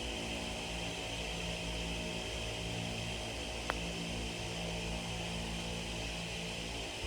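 A single sharp tick about halfway through, a putter striking the golf ball on a downhill putt. It sits over a steady low hum and a steady high buzz.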